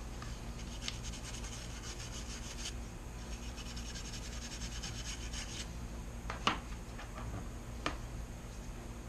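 A dry brush scrubbing with quick strokes over the fuel pump plate mating surface, clearing debris ahead of a new gasket, with two sharp taps near the end over a steady low hum.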